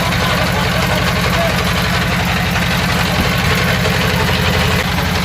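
River trawler boat's engine running steadily, with a rapid, even low beat under a broad hiss.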